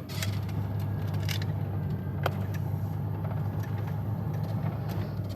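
Steady low hum of a vehicle's engine heard from inside the cabin, with a few faint clicks.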